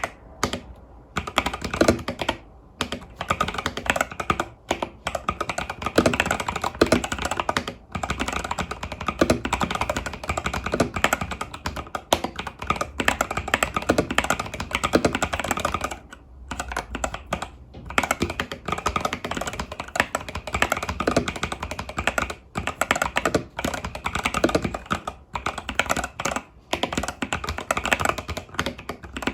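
Typing on an Epomaker TH80 Pro mechanical keyboard with Epomaker Budgerigar tactile switches and stock keycaps: a fast, continuous clatter of keystrokes, with short pauses now and then.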